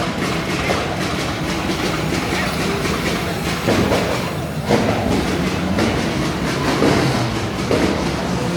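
Loud car engines running with a rapid, rhythmic exhaust pulse, with a few louder swells of revving from about four seconds in.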